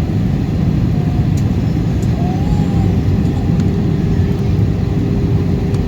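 Airbus A320 cabin noise in flight: a loud, steady low rumble of engines and airflow, with a steady hum joining in about halfway through.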